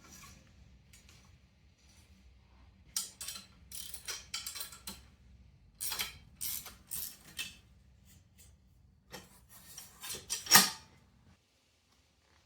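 Bursts of sharp metallic clicking and rattling from steel parts or hand tools being handled, in three clusters with the loudest knock near the end. A faint low hum underneath stops shortly before the end.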